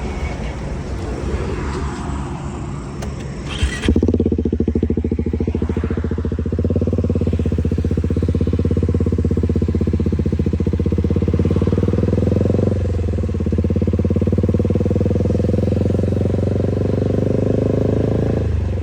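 KTM motorcycle fitted with an aftermarket exhaust, its engine running at a steady, loud note. The note comes in with a knock about four seconds in, after a few seconds of noisy road sound. It dips briefly about two-thirds of the way through before carrying on.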